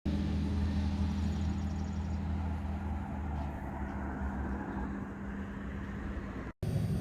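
A motor vehicle's engine running with a steady low hum and road noise. It cuts out briefly near the end.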